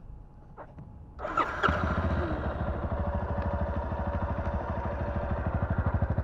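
A small trail motorcycle's engine starting about a second in, then running at a steady idle with an even pulsing beat.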